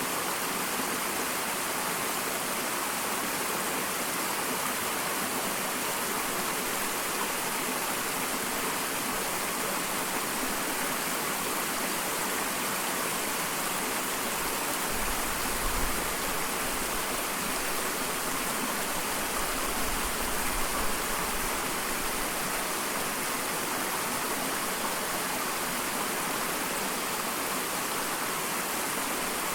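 Small waterfall splashing with a steady rush of water. A brief low rumble comes twice, about halfway through and again some five seconds later.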